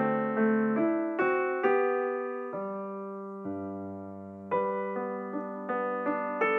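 Background music: a soft piano-like keyboard playing a slow melody over chords, each note struck and left to fade, with a longer held chord in the middle.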